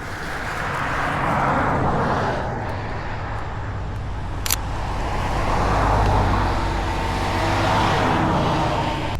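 A car driving past on the road, its tyre and engine noise swelling up and fading, twice. A single sharp click near the middle.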